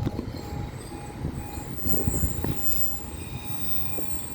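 Northern Class 156 diesel multiple unit at the platform: a low steady rumble with a faint steady whine and a few sharp clicks.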